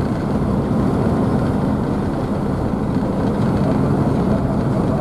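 Car ferry's engines running at a steady cruise, a continuous low rumble mixed with the rushing splash of the wake churned up behind the stern.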